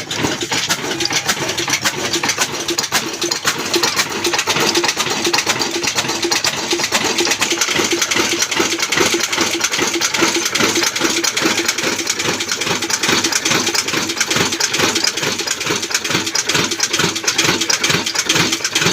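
Old Ruston Hornsby diesel oil engine running with a steady, regular firing beat.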